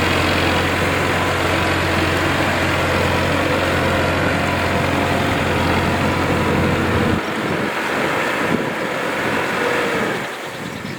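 Tractor engine running steadily; its deep low rumble cuts out about seven seconds in, and the sound grows quieter near the end.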